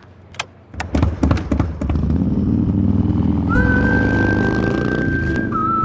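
A few sharp clicks, then a motorcycle engine starts running with a loud, low, pulsing rumble. About halfway through, a long whistled note comes in over it and steps down in pitch near the end.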